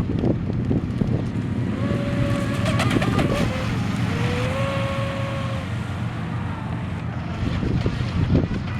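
Pro Boat Shockwave 26 RC speedboat running on the water, its electric motor giving a high whine that rises and falls with the throttle, over wind and water rumble. A few sharp clicks or splashes come about three seconds in.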